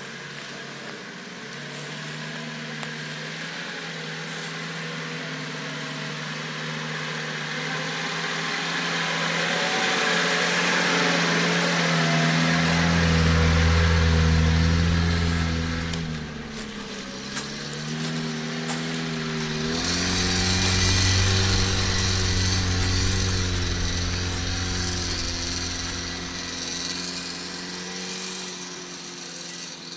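Off-road vehicle's engine working under load, growing louder and higher to a peak about halfway through, dropping briefly, then rising again and easing off near the end.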